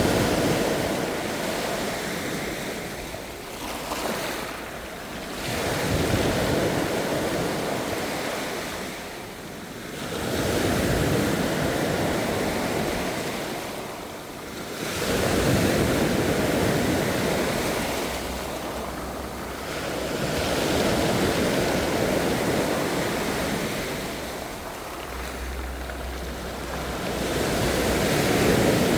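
Ocean waves breaking and washing up the shore, the surf swelling and ebbing about every five to six seconds, six times in all.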